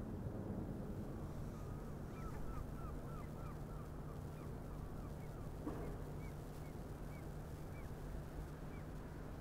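A bird calling in a quick series of short chirps, then more slowly, over a steady low engine hum from the harbour vessels.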